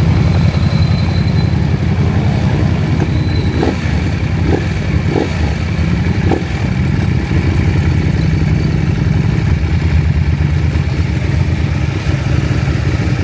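KTM 790 Adventure's parallel-twin engine running at an even, steady pitch, with a few brief clicks in the middle.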